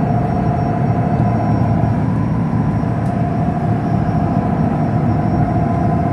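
Motorboat engine running steadily underway: a constant loud drone with a steady hum held over it.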